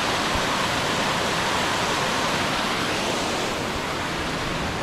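Steady rush of white water cascading over rocks in a mountain creek's waterfall.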